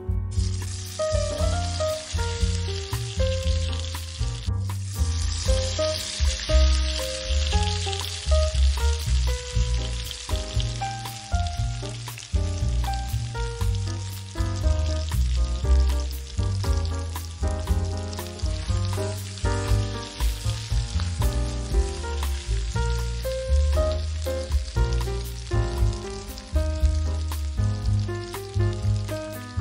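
Garlic, onions, bell peppers and chorizo frying in olive oil in a pan, a steady sizzle that grows stronger about four seconds in. Background music plays under it.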